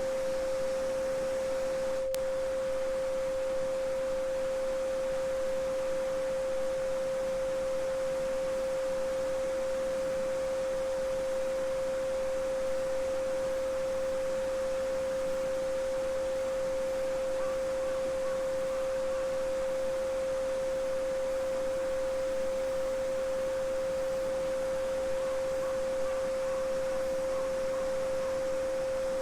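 A steady pure 528 Hz sine tone held without a break, over the soft, even rush of a babbling brook.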